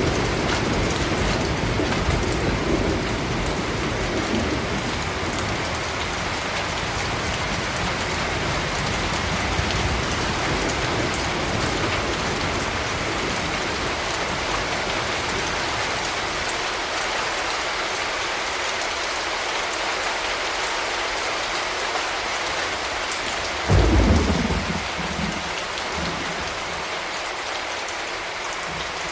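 Steady rain falling, with a low rumble of thunder fading away over the first half. About 24 seconds in, a sudden loud thunderclap rolls off over a couple of seconds.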